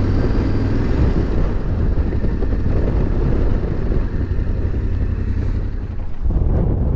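Motorcycle engine running at low revs, with a steady low rumble of wind on the microphone.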